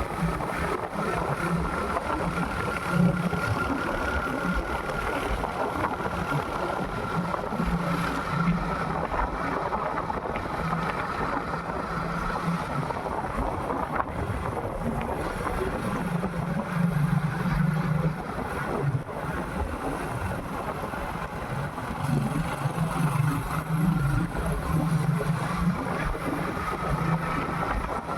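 Motorcycle running on the move, with wind rushing over the microphone.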